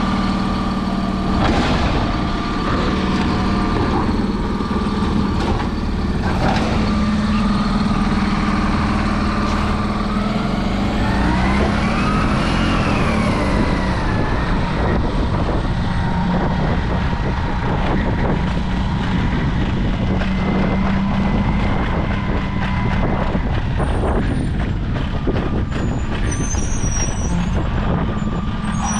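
Autocar recycling truck with a Labrie Automizer side-loader body working, its diesel engine running steadily. A whine rises and falls about ten to fourteen seconds in. Short knocks and clatters are heard throughout.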